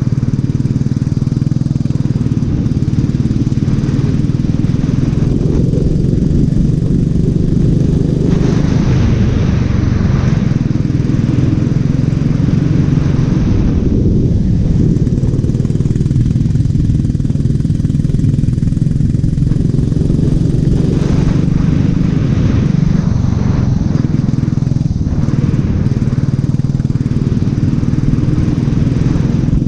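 Racing kart engine running hard around the track, its pitch rising and falling a little with the throttle, under a steady rushing noise that swells and fades every few seconds.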